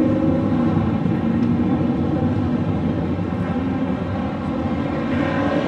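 Big-block V8 car engine running at a steady speed, holding an even note.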